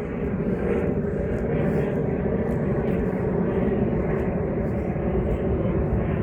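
Steady low mechanical drone with a few held tones, like an engine running at a distance, and soft footsteps about twice a second.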